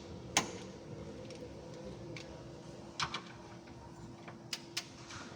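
A few sharp clicks at irregular intervals, two close together about three seconds in and two more near the end, over a steady low hum.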